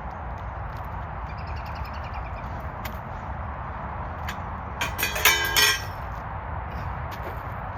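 Metal parts of a portable shooting bench clinking together during assembly: a quick cluster of light metal-on-metal clinks with brief ringing about five seconds in, over steady background noise.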